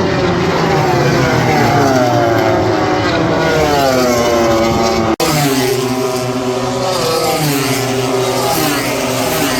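Several racing motorcycle engines running at high revs on the circuit, overlapping, their pitch rising and falling as they go by. The sound drops out briefly about five seconds in.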